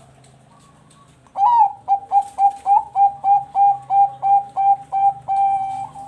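Bangkok-bred zebra dove (perkutut) singing its cooing song: one gliding opening note, then a quick string of about a dozen short coos at roughly four a second, ending on a longer held note.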